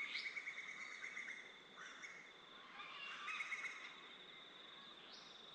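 Birds calling in repeated chirps over a steady high trill.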